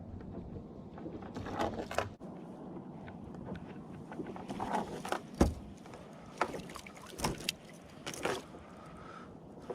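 Handling sounds on a kayak on the water: a few swishes of water and several sharp knocks against the hull, spaced irregularly and loudest about halfway through.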